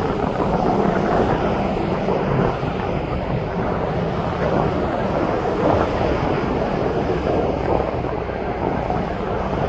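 Aircraft engine noise, a steady rushing sound, mixed with wind on the microphone.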